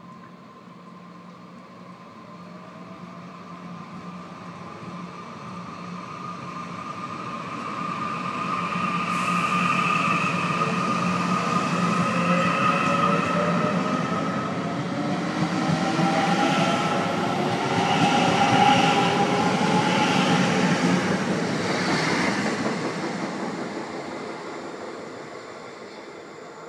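Korail ITX-Saemaeul electric multiple-unit train pulling away from the platform: a whine rises in pitch as it accelerates, over the rolling noise of its wheels on the rails. The sound swells for about ten seconds, holds as the cars pass, and fades over the last few seconds as the train leaves.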